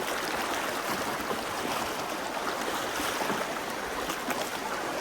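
Steady rush of a flowing mountain stream.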